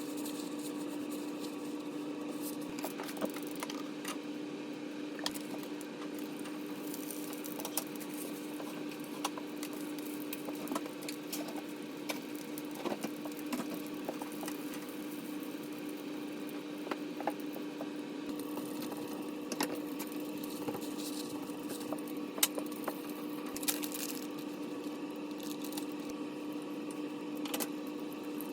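Kitchen work sounds: light clicks and knocks of utensils and dishes at irregular moments over a steady low appliance hum.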